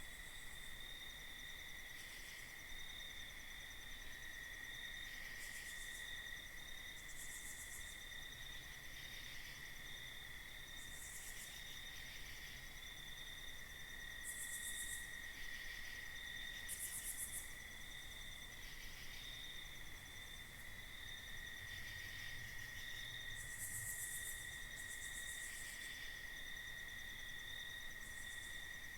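Crickets trilling steadily on one high note through the night, with short, even higher-pitched insect buzzes of about a second each breaking in every few seconds.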